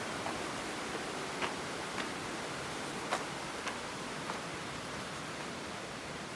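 Steady hiss of light rain, with single drops ticking sharply close to the microphone at irregular moments.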